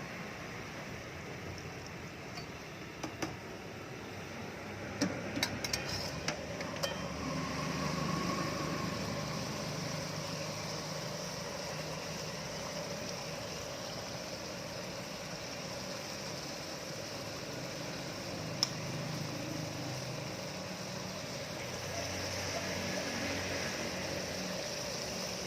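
Steady mechanical hum of kitchen equipment, with a few sharp clinks of metal utensils about five to seven seconds in and one more later.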